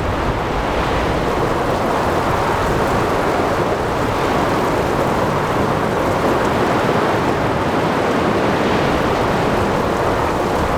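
Steady storm-at-sea ambience: rain falling and ocean waves breaking, with wind.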